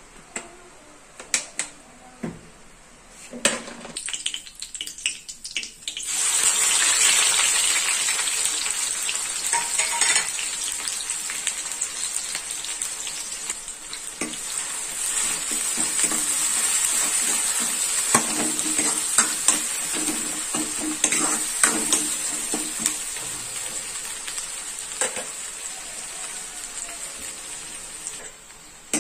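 Sliced onion and dried red chillies frying in hot oil in an aluminium kadai: a loud sizzle starts suddenly about six seconds in and keeps going, with a metal spatula clacking and scraping against the pan as they are stirred. A few sharp clinks of the spatula on the pan come before the sizzle.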